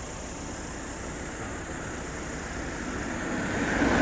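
Airplane on its landing, heard as a steady rushing noise that grows louder near the end.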